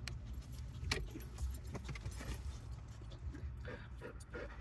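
A dog climbing about inside a truck's cab, with a few light clicks and jingles of its collar tags, over the steady low rumble of the vehicle.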